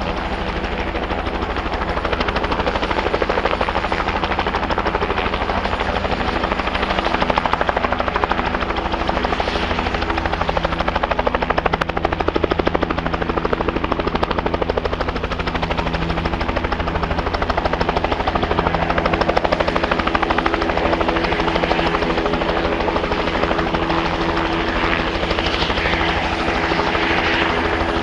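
Helicopter running close by: a steady, rapid chop of the main rotor with a steady engine tone underneath.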